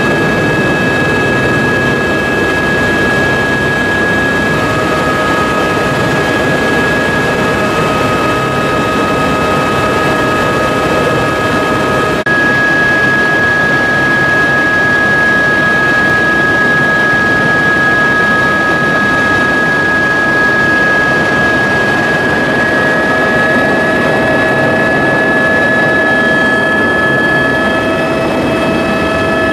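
Loud, steady engine noise from a vehicle: an even rush with several high whining tones held at a constant pitch, and a small step up in level about twelve seconds in.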